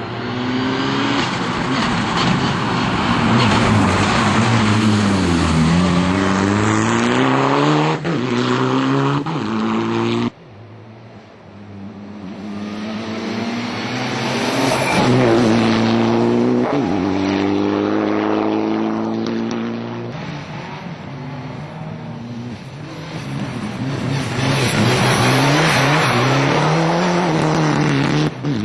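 Mitsubishi Lancer Evolution IX rally car's turbocharged four-cylinder engine driven hard, its pitch climbing through the revs and dropping at each gear change, with a deeper fall as it slows for a corner. The sound cuts off abruptly about ten seconds in, then builds back up from quieter into more hard acceleration and shifts.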